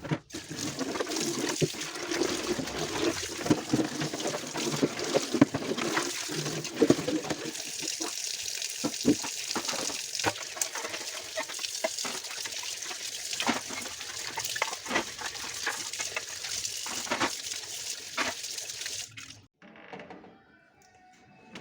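Water running from a tap and splashing while things are washed in a sink, with scattered knocks and clinks of items being handled. The water cuts off abruptly near the end.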